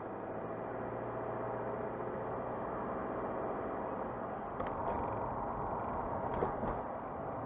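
Car driving at a steady pace: even engine and tyre noise, with a few short knocks from the car about halfway through and again near the end.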